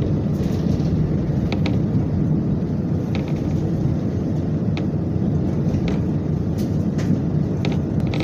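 Inside a moving diesel local train: the steady low rumble of the running railcar, with irregular light clicks and rattles from the wheels and the carriage.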